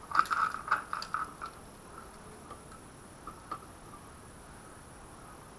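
Small metal parts from the KTM 250 EXC-F's opened cylinder head clicking and clinking in a quick cluster for about a second and a half, then two more light ticks a little later.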